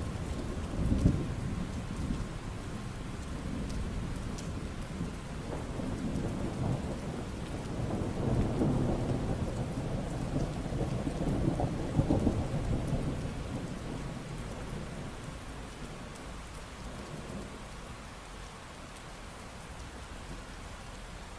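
Steady rain falling with rolling thunder: a rumble about a second in, then a long swell from about 7 to 13 s that dies away, leaving only the rain.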